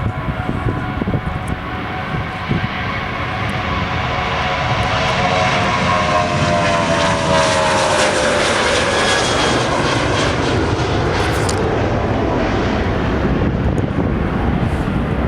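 Airplane passing close by, its engine tone sliding down in pitch as it goes past. It is loudest about halfway through, then holds as a steady rush.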